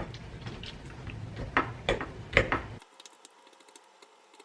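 A fork pricking raw chicken pieces, with a few sharp clicks of the tines against the dish. Under it a low steady background noise, which cuts off suddenly a little before three seconds in, leaving only faint ticking.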